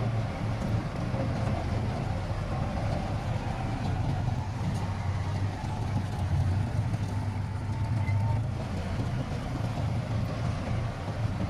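Heavy diesel earthmoving machinery running steadily, a low engine drone.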